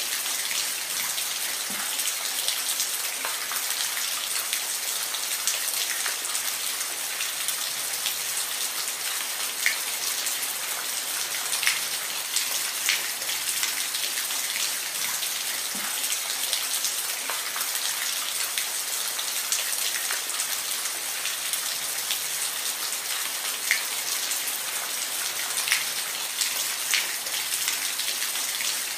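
Steady rain, a dense hiss of falling rain with scattered louder individual drops ticking on a surface.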